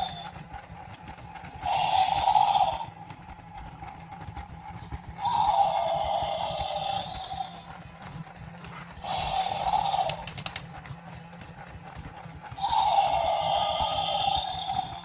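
Electronic toy creature's sound effect from a small speaker: a neigh-like cry, one to two seconds long, repeating four times about every four seconds over a steady low hum.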